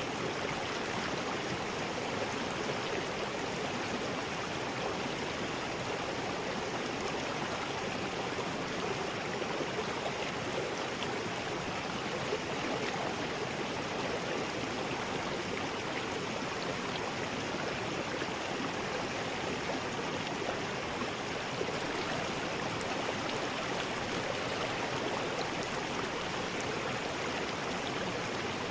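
River rapids: water rushing steadily over rocks.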